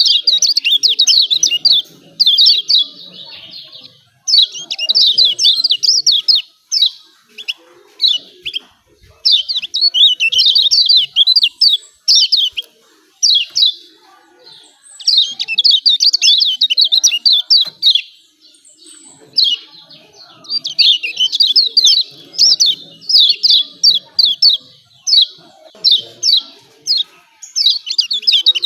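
Kecial kuning (pleci, a yellow white-eye) singing its fast, high 'ciak ciak' chirping song in bursts of a second or two, broken by short pauses and single chirps.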